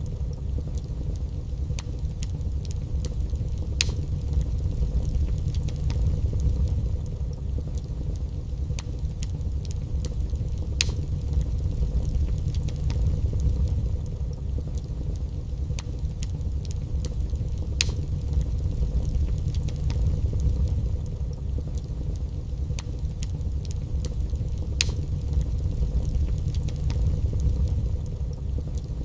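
Wood fire burning in a fireplace: a steady low roar of the flames with scattered sharp crackles and pops of the burning logs, a few of them loud.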